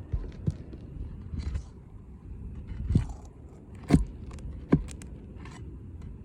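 Scraping and handling on an asphalt shingle roof as a damaged shingle is worked loose around its nails, with three sharp knocks about three, four and nearly five seconds in.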